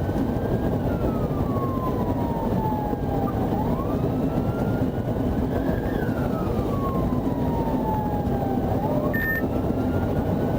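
Police car siren on a slow wail: the tone rises quickly, then falls slowly, repeating about every five seconds over loud, steady engine and road noise from a car at speed. A short beep sounds about nine seconds in.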